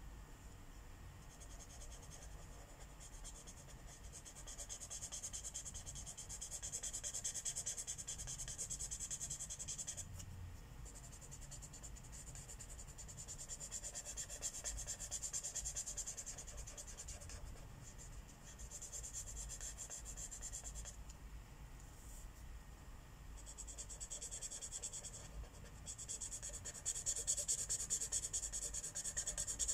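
Marker tip rubbing across paper while colouring in a mandala, a soft scratchy hiss in long back-and-forth stretches with short pauses as the pen is lifted.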